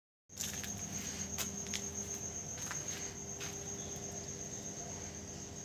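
Crickets chirping: a steady, fast-pulsing high trill that cuts in abruptly just after the start, with a few sharp clicks in the first few seconds.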